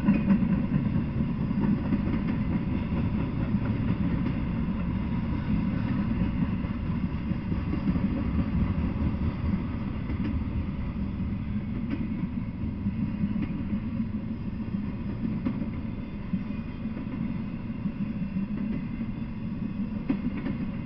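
Intermodal freight train rolling steadily past: a continuous low rumble of car wheels on the rails, with a few faint clicks about halfway through.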